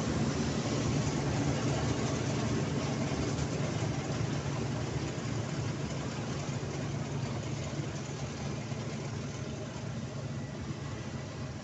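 Heavy diesel farm engine running steadily, slowly growing fainter.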